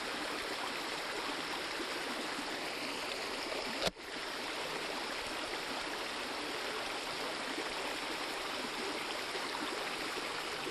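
Fast-moving creek rushing steadily over its bed. A single sharp click with a momentary drop in level about four seconds in.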